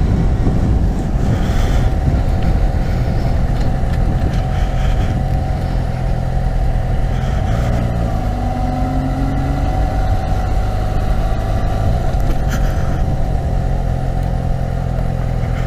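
2012 Yamaha FZ6R's 600cc inline-four engine running steadily under way, with a faint rising whine about halfway through.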